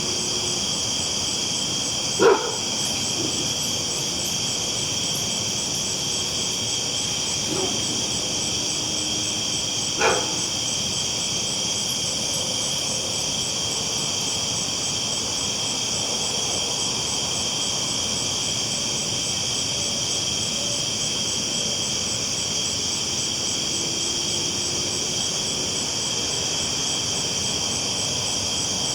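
Steady high-pitched hiss throughout, with a dog barking: once about two seconds in, faintly near seven and a half seconds, and again about ten seconds in.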